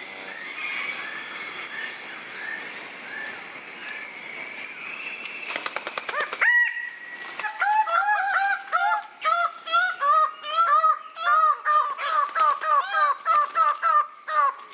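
For about six seconds, a steady high insect-like drone with faint bird chirps. Then, after an abrupt change, a bird calls over and over in quick, loud, arched notes, like a domestic fowl.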